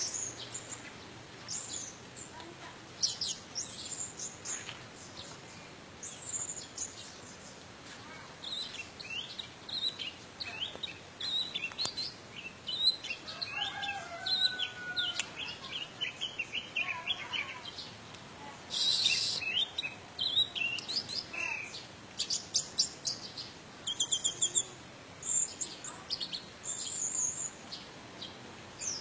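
Orange-headed thrush (anis merah) singing a long, varied song of quick high chirps and sweeping whistles, packed with mimicry of other birds' calls, with a short harsh, scratchy phrase about two-thirds of the way through.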